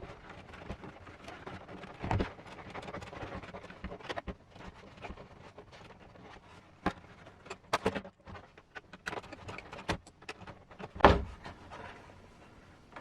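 Scattered light clicks and knocks of small plastic body parts and screws being handled during hand assembly, with the loudest knock about eleven seconds in.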